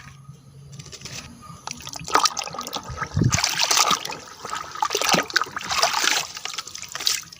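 Water trickling and splashing as a muddy toy vehicle is washed by hand, coming and going unevenly with a few small knocks.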